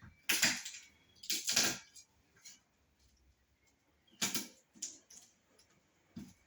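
Kitchen utensils knocking and clattering: about five irregular sharp knocks, the loudest two in the first two seconds.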